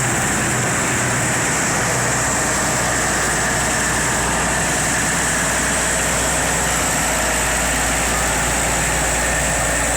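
Tractor engines running steadily.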